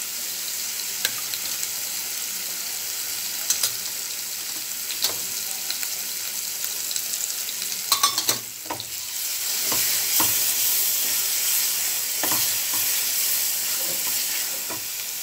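Thick onion-tomato masala with spice powders frying in oil in a metal pan, sizzling steadily while a wooden spatula stirs it, with scattered knocks and scrapes of the spatula against the pan. The sizzle grows louder about nine seconds in.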